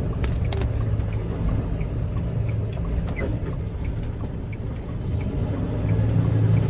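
Semi truck's diesel engine running steadily under way, with scattered light clicks and rattles; the engine hum gets louder about six seconds in.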